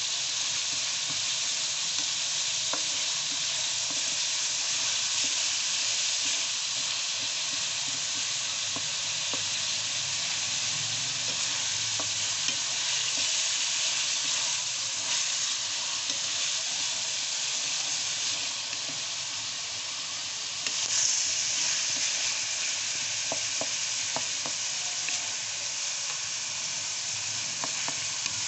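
Diced chicken breast sizzling in oil in a metal pan as it fries, stirred with a wooden spoon that scrapes and taps against the pan now and then. The sizzle flares up briefly about three-quarters of the way through.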